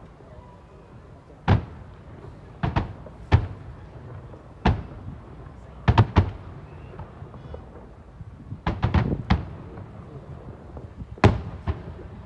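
Fireworks shells bursting: a dozen or so sharp bangs at irregular intervals, several coming in quick clusters of two to four, over a low rumble.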